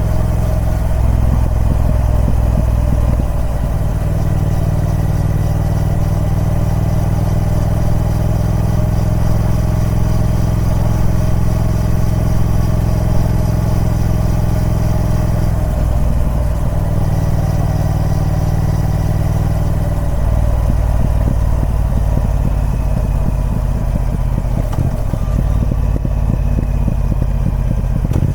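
Triumph Speed Twin 1200's parallel-twin engine running through its stock exhaust, a steady note that jumps to a new steady pitch a few times.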